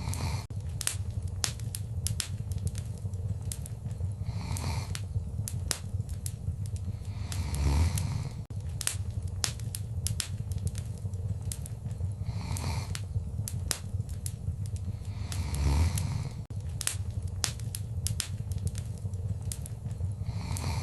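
Wood fire crackling in a fireplace: a rapid, irregular stream of sharp pops and snaps over a steady low rumble of the flames, with a louder soft whoosh swelling up every four seconds or so.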